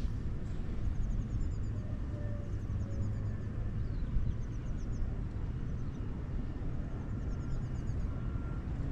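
Small birds chirping in short, high, rapid trills, repeated every second or so, over a steady low rumble.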